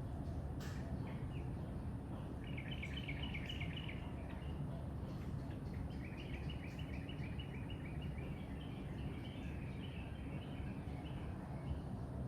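A songbird singing in quick chattering trills, a short phrase about two and a half seconds in and a longer one from about six seconds to near the end, over steady low background rumble.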